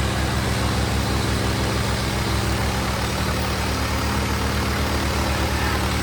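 Tractor diesel engine running steadily, with a fast, even low throb.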